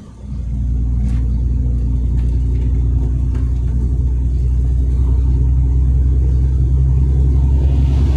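Heavy truck's diesel engine running under steady load, a loud low rumble that starts abruptly at the start.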